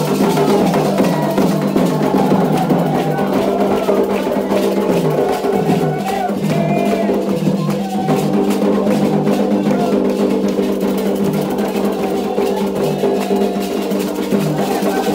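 Candomblé ritual music: atabaque hand drums playing a steady rhythm with a struck-bell or wood-block beat, and voices singing over them.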